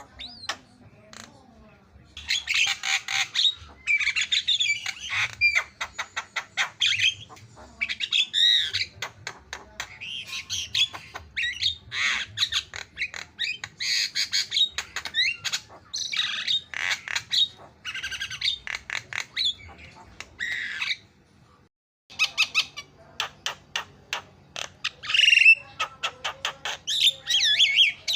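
Javan myna singing vigorously: fast runs of harsh squawks, chattering and rapid clicking notes, with a short pause about three-quarters of the way through.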